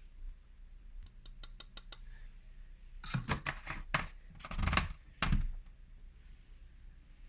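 Whirlpool washing machine in its main wash: a quick run of light clicks, then a couple of seconds of swishing and knocking from the drum and the wet laundry, with one dull thud.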